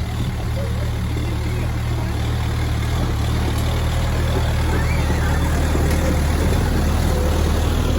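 A tractor's engine running steadily, growing a little louder in the second half.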